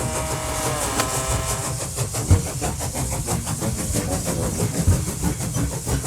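Toy train running along its track with a fast, even clatter, as music dies away in the first second.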